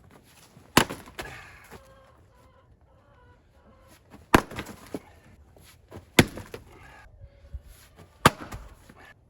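Four sharp wooden knocks, irregularly spaced a second or two apart, each with a short ring after it: firewood being handled or split.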